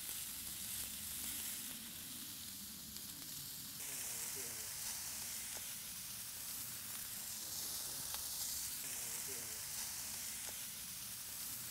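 Bacon, sausages and tomatoes sizzling on the ribbed grill plate of a five-burner gas barbecue: a steady frying hiss with a few faint crackles of fat.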